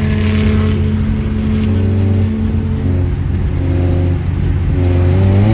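A car engine running at a steady pitch, then revving up near the end as it accelerates.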